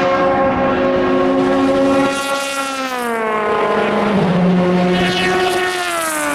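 Endurance race car engines running at speed: a steady engine note whose pitch glides down about two seconds in and again near the end.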